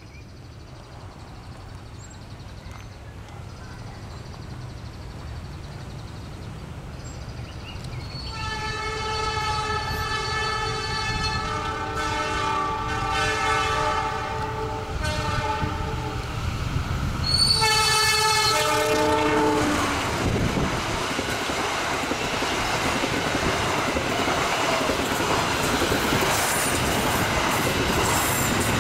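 An approaching diesel-hauled passenger train, its rumble growing steadily. The locomotive's horn sounds a long blast about eight seconds in and a shorter second blast about ten seconds later. The train then passes close by with loud, steady wheel and running noise.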